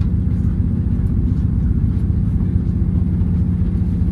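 Inside the passenger saloon of a moving Class 221 Super Voyager diesel train: a steady low rumble of the underfloor diesel engines and running gear.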